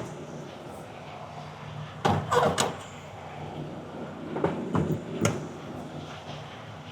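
Steady low hum of an idling truck engine, with a short burst of clattering knocks about two seconds in and three sharper single knocks later.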